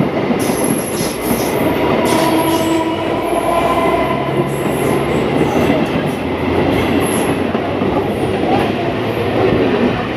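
Indian Railways EMU local trains running on adjacent tracks as one passes close alongside: a loud, steady rumble of wheels on rails, with some wheel squeal and a faint whine that comes and goes.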